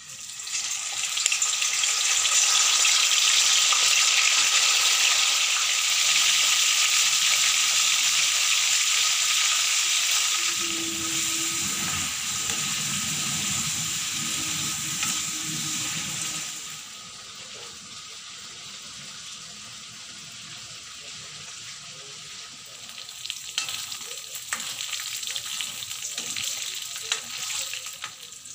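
Chicken breast pieces frying in hot oil in a steel wok, a steady sizzle stirred with a metal spatula. The sizzle is loud for the first half and drops to a quieter sizzle about two-thirds of the way through.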